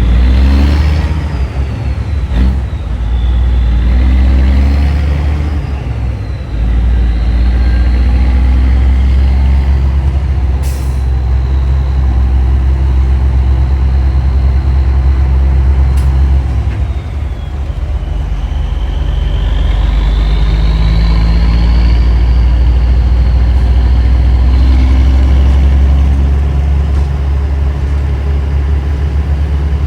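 Big rig truck on the move, its diesel engine running with a loud, steady low drone, and long sustained blasts from a Nathan Airchime P3 train horn on top.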